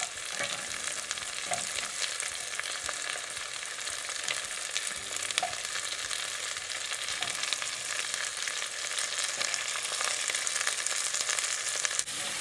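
Chopped garlic, red chilli and onion pieces sizzling in hot oil in a pan on high heat: a steady hiss with many small crackles.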